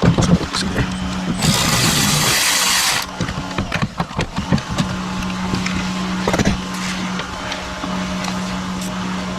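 Work sounds on a car engine: scattered metal clinks and knocks of hand tools over a steady low hum, with a loud hiss lasting about a second and a half, starting about a second and a half in.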